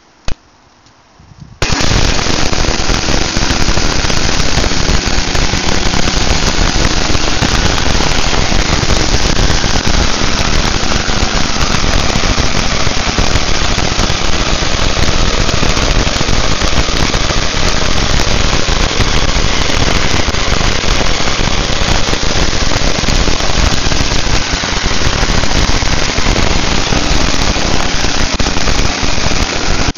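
Harley-Davidson Shovelhead V-twin engine on a test stand catches about a second and a half in, then runs loud and steady while it is being broken in.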